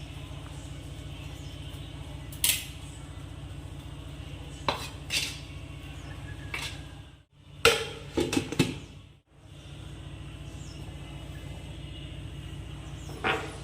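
Metal kitchen utensils and pots clinking and knocking: a few separate sharp clinks, with a quick cluster of them about eight seconds in, over a steady low hum.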